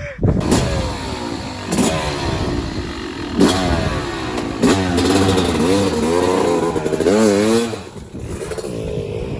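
Dirt bike engine revving, its pitch rising and falling repeatedly. Several sharp clattering knocks come in the first half.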